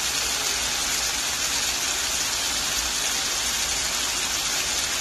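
Chicken pieces frying in oil with tomato, onion and garlic in a pan, sizzling steadily as the chicken browns.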